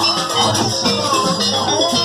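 Jaranan ensemble music: struck percussion keeping a steady beat under held pitched notes, with a wavering melody line over it.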